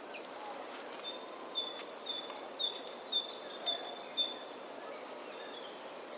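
A bird calling in a repeated pattern of short, clear whistled notes, alternating between a higher and a slightly lower pitch, over soft outdoor ambience.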